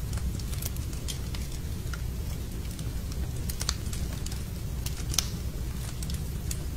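Wood fire burning in a fireplace, crackling with irregular sharp pops over a low steady rumble; one pop about five seconds in is louder than the rest.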